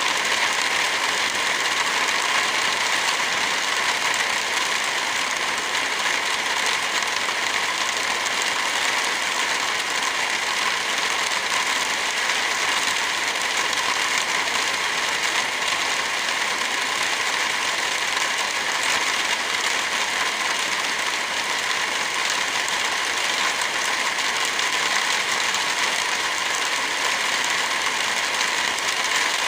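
Steady rain falling, an even hiss that does not let up, mixed with the crackle of a wood fire.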